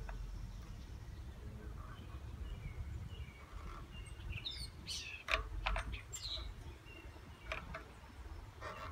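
Birds chirping in the background, with short high calls clustered about halfway through, over a low steady outdoor hum and a few faint clicks.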